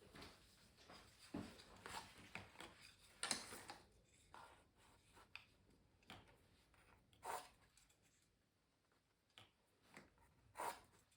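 Faint scratchy strokes of a drawing or painting tool on canvas: a run of quick strokes in the first few seconds, the loudest a little after three seconds, then a few single strokes spaced out.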